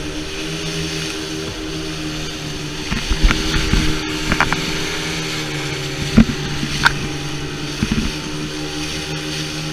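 Motorboat outboard engine running steadily at cruising speed, with several heavy thumps as the hull hits the waves of a river rapid.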